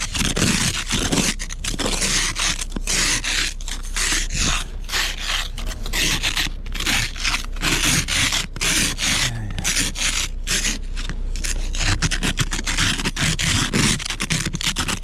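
Snow being scraped off with a snow-clearing tool in quick, repeated, irregular strokes.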